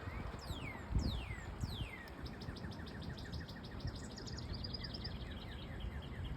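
Songbirds calling outdoors: three clear whistles sliding steeply downward in the first two seconds, over fast runs of short repeated chirps that go on throughout.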